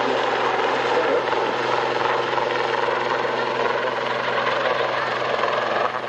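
Steady drone of an aircraft engine with a broad rushing noise, holding level throughout and dipping slightly near the end.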